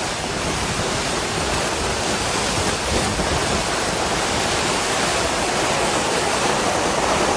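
Loud, steady rush of water, an even roar with no separate splashes or knocks.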